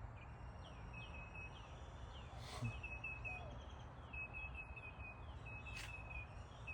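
Songbirds chirping in runs of short, quick, high notes, each slurring down, over a steady low background rumble. Two brief hissing bursts stand out, about two and a half seconds in and near the end.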